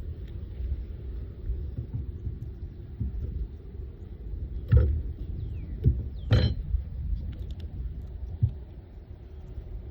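A few sharp knocks and clicks from wooden beehive frames and a hive tool being handled as a frame is pried loose and lifted out, the loudest a little under halfway through and another about a second and a half later, over a steady low rumble.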